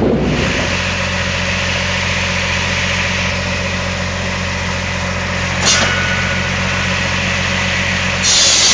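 Engine of a firewood processor running steadily at a constant speed, with a short hissing burst about six seconds in and a louder one near the end.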